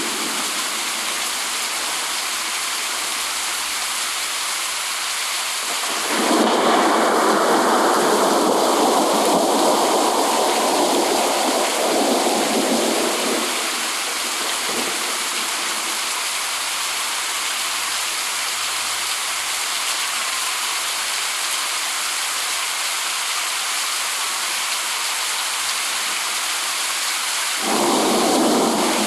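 Steady heavy rain hissing, with a roll of thunder breaking in about six seconds in and dying away over several seconds, and another beginning near the end.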